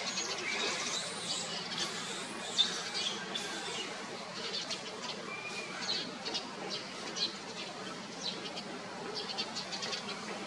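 Birds chirping: many short high chirps and a few whistled, arching calls, busiest in the first few seconds and then scattered, over a steady low background noise.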